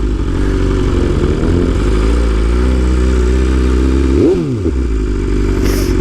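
BMW S1000RR inline-four engine running at steady low revs. About four seconds in, a quick throttle blip sends the pitch shooting up and straight back down.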